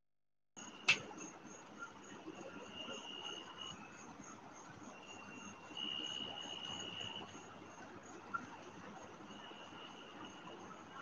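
Night insects chirping steadily, a high pulsing chirp with a lower trill that swells and fades in stretches of one to two seconds. The sound cuts in after a brief dead-silent gap at the very start, and a single sharp click comes about a second in.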